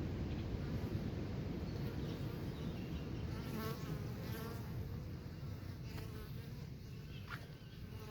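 A steady buzzing hum, like small wings hovering. A few short wavy chirps come around the middle, and a brief falling sweep comes near the end.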